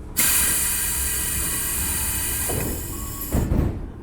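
Doors of a Tobu 10000 series commuter train closing. A loud, high, steady sound starts suddenly and holds for about three seconds. Two heavy thuds follow, the second the loudest, as the doors shut.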